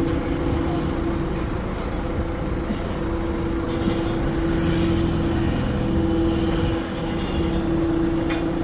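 A machine engine running steadily on a construction site, with a steady hum that drops out for a moment around the middle.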